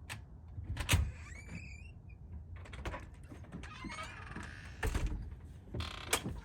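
Wind buffeting the microphone in a low rumble, with a few sudden thumps and some short high chirps.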